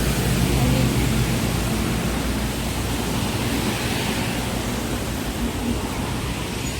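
Steady rushing noise with a low rumble.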